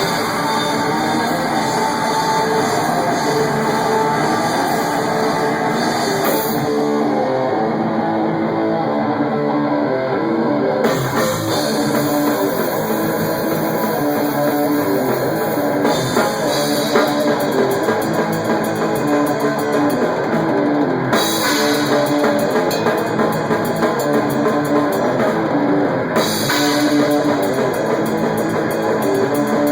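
Rock band rehearsing, picked up raw by a camera at the drum kit: electric guitar chords over a full drum kit playing a steady beat. The high cymbal wash drops out twice for a few seconds.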